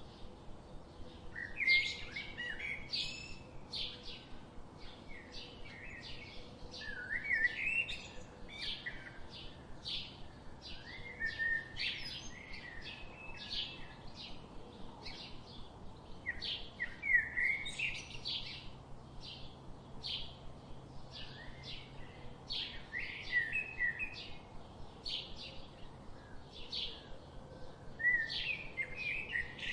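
Birds singing continuously: a steady run of short high chirps, about two a second, broken now and then by brief warbling phrases.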